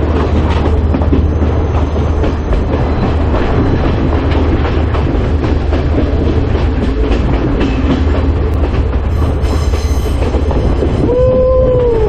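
Passenger train running along the track, heard from aboard a carriage: a steady rumble with the wheels clicking over rail joints. Near the end a single held tone lasts about a second.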